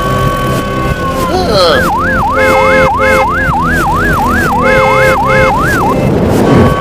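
Electronic siren going in a fast up-and-down yelp, about two to three sweeps a second, starting about two seconds in and stopping about a second before the end, over steady electronic tones.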